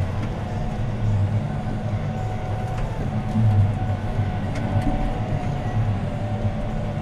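John Deere 6215R tractor's six-cylinder diesel engine running steadily under ploughing load, heard from inside the cab: a continuous low drone with a thin steady whine above it and a few light rattles.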